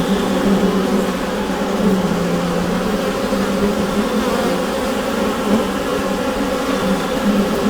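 Honeybees humming densely inside a hive: a steady, continuous drone with a low pitch around 200 Hz and higher overtones, wavering a little as many wings beat together.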